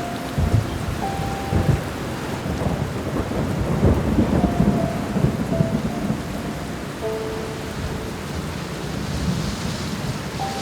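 Steady rain with rolling thunder, the rumble strongest around half a second in and again about four seconds in, under a few soft, sparse piano notes.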